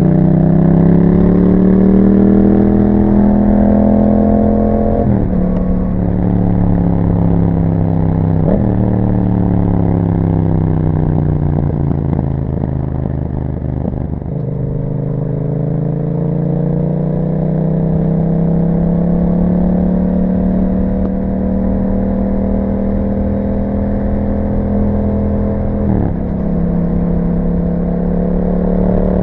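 Yamaha MT-07's 689 cc parallel-twin engine through an Akrapovic exhaust, under way: it revs up with gear changes about five and eight and a half seconds in, then the revs fall off for several seconds. From about fourteen seconds it accelerates in one long steady climb, with another gear change near the end.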